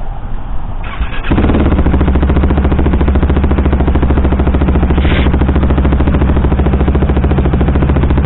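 KTM motorcycle engine cranked on the starter, catching about a second in and then idling steadily with a fast, even exhaust pulse. A brief hiss comes about five seconds in.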